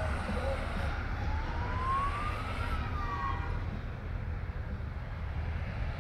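Low, steady rumble of Honda Gold Wing motorcycles riding past in a parade. About a second in, a single siren-like tone slowly rises and then falls back over about two seconds.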